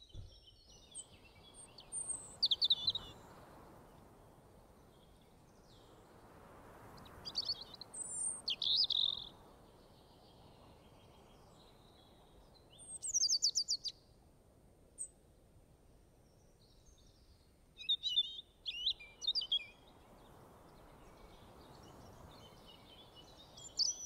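Songbirds chirping and calling in short bursts of high notes every few seconds, over a faint background hiss that slowly swells and fades.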